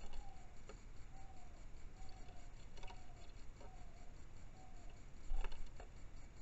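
A red-whiskered bulbul tapping and striking a car's side mirror as it fights its own reflection, with a few sharp taps and one louder thump a little past five seconds in. A faint string of short, slightly falling whistled notes repeats about once a second.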